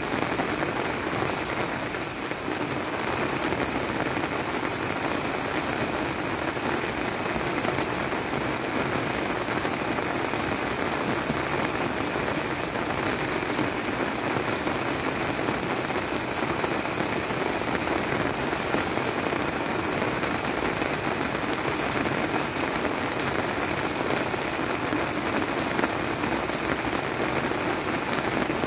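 Steady monsoon rain falling on leafy garden plants, a dense, even patter of drops.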